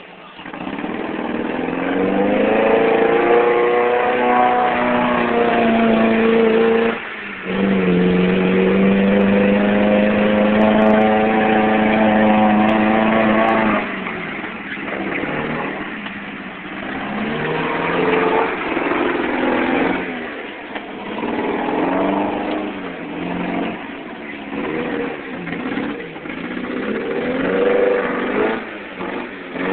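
Toyota mud truck engine revving hard while mudding, held at high revs for several seconds with a brief drop about seven seconds in. From about halfway it revs up and down repeatedly.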